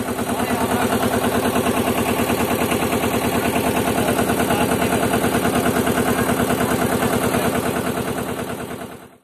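A road roller's engine running at a steady idle, with an even, rapid beat. It comes up quickly at the start and cuts off abruptly near the end.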